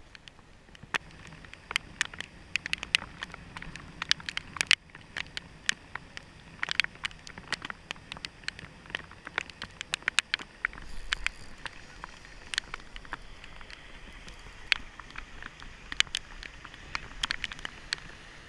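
Heavy rain heard as many irregular sharp ticks of drops striking close to the microphone, over a steady hiss, with a brief low wind rumble about halfway through.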